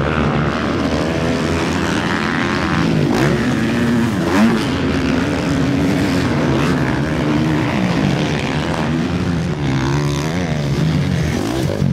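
450cc four-stroke motocross bikes racing, engines revving up and down with the pitch rising and falling as riders work the throttle and shift. Several engines overlap, with a brief louder burst about four and a half seconds in.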